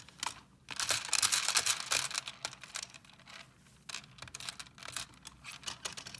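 Small plastic pieces and wrapping being handled, making a dense run of crinkling and clicking for about two seconds, then scattered clicks.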